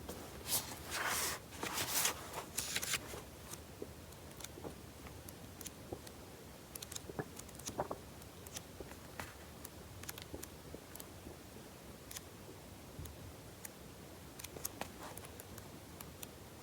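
Rustling handling sounds for about the first three seconds, then scattered faint clicks and small taps in a quiet room.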